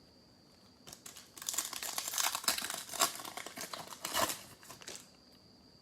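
Foil wrapper of a Panini football card pack being torn open and crinkled. The crackling starts about a second in and stops about a second before the end.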